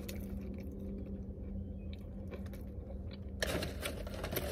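Chewing a burger, with crackly clicks of mouth noise and the paper wrapper being handled from about three and a half seconds in, over a steady low hum in the car.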